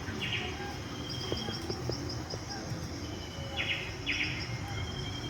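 Birds calling outdoors: two pairs of short rattling calls, one at the start and one about three and a half seconds in, over fainter high chirps and steady background hum.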